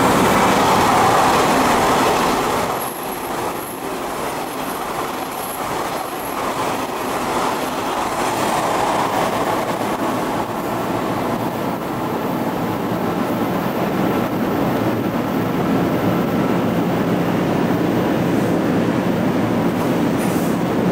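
Odakyu 5000 series electric commuter train running past on the rails, loudest in the first few seconds. After a drop about three seconds in, the running noise builds again.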